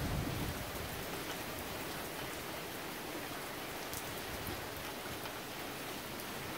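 Steady rain falling during a thunderstorm, an even hiss.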